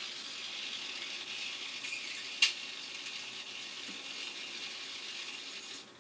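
Ear suction hissing steadily as discharge is vacuumed out of an infected ear with tympanostomy tubes, with one sharp click about two and a half seconds in.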